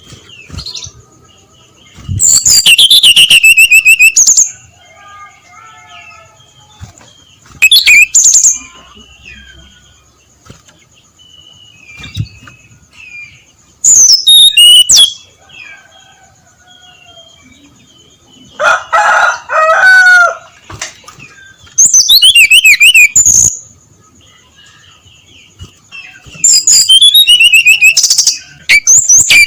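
Brown-chested jungle flycatcher singing: loud bursts of rapid, jumping high-pitched warbling phrases of one to two seconds each, about six in all with pauses between, over fainter calls of other birds.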